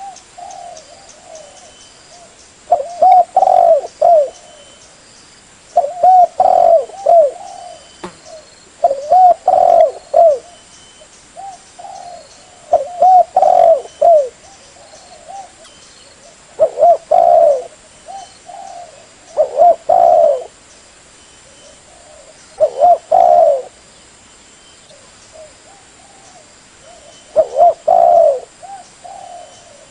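Spotted dove cooing: a short phrase of a few notes repeated about every three to four seconds.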